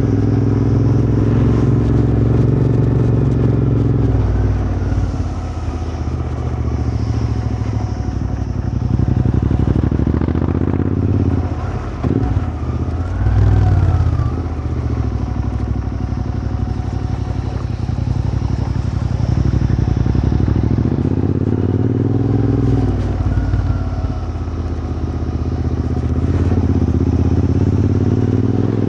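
Royal Enfield Continental GT 650's parallel-twin engine running through a Powerrage aftermarket exhaust while being ridden. The engine pitch falls off and climbs again several times as the throttle is closed and opened.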